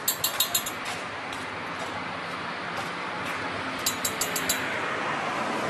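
Two quick runs of about five sharp, light clicks each, one at the start and one about four seconds in, over a steady background hiss.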